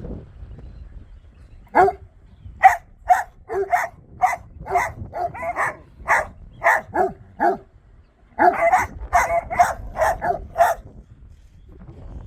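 Dogs barking repeatedly: a run of about a dozen sharp barks, a brief pause, then a faster, denser burst of barks before they stop.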